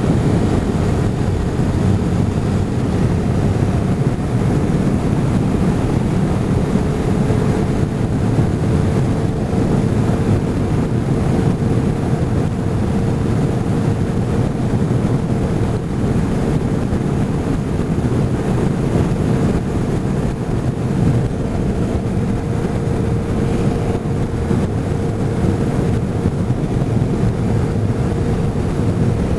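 Motorcycle running at a steady cruising speed, with wind buffeting the microphone. A faint steady whine comes in about six seconds in.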